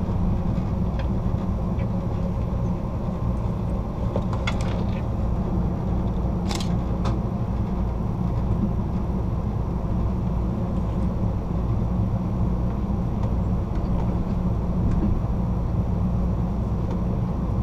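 Steady rumble of an Amtrak passenger train's wheels running on the rails, heard from inside the rear car, with a few sharp clicks about four and a half and six and a half seconds in.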